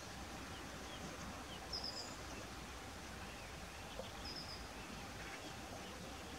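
Steady outdoor background noise with faint, brief high bird chirps, one pair about two seconds in and another a little after four seconds.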